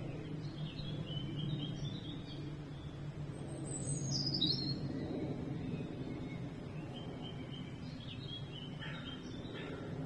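Songbirds chirping with scattered short calls, one of them a high whistle falling in pitch about four seconds in and a quick run of repeated notes near the end, over a steady low background rumble.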